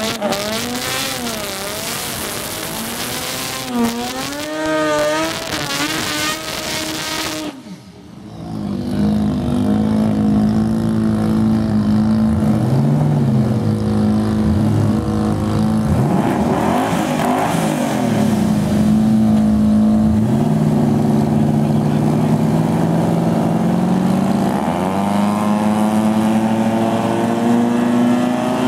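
Twin-turbo 4-litre V8 drag car engine being revved in quick blips, then running at a steady drone with other engine sounds swooping past, and climbing steadily in revs near the end.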